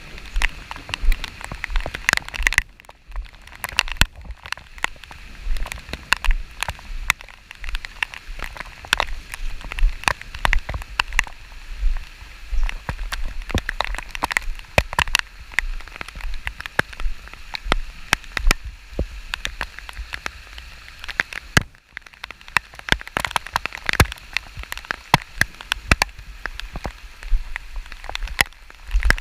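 Rain falling, with many irregular sharp taps of drops striking close to the microphone over a steady hiss, and a low rumble of wind on the microphone.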